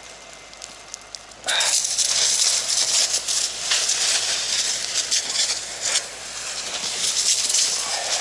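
Fire hose nozzle opening about a second and a half in, the water jet hissing loudly and steadily as it sprays onto the burning forest floor.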